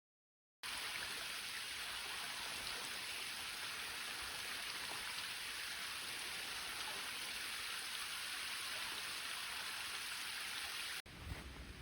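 A river's flowing water rushing steadily, an even hiss with no single events standing out. It comes in suddenly about half a second in and cuts off abruptly near the end.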